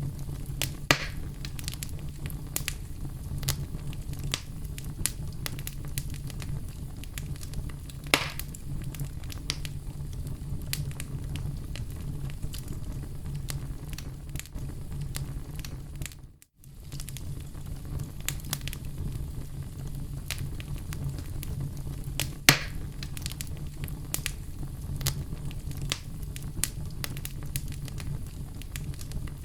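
Oak-wood fire burning in a fireplace, crackling steadily with many small pops and a few louder snaps over a low, steady rumble. The sound cuts out for a moment about halfway through.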